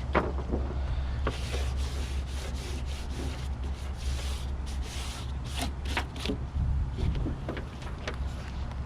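A blade scraping and trimming old windshield urethane off the car's pinch weld: a run of short, rough scraping strokes with a few sharp clicks, over a steady low hum.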